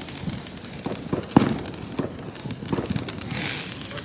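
Fireworks popping and crackling at irregular intervals, with a brief hiss near the end.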